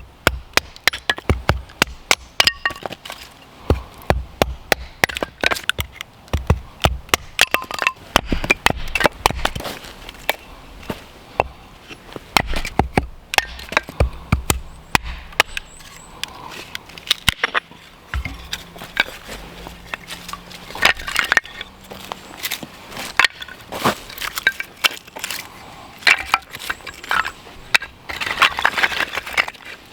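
Dry sticks and twigs being snapped for firewood: a dense run of sharp, irregular cracks and snaps, several a second.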